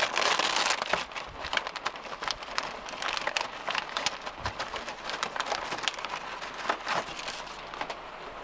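Rain pattering on a sailboat's cabin top: irregular ticks of drops over a steady hiss, louder for the first second.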